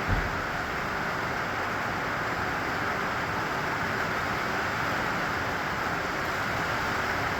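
Steady rain: an even, unbroken hiss, with one brief low thump just after the start.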